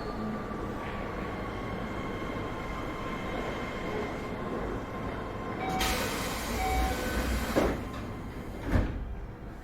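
Keio 7000 series train running, heard from inside the car: a steady rumble with a faint whine. About six seconds in a loud hiss rises for a couple of seconds, and two sharp thumps follow near the end.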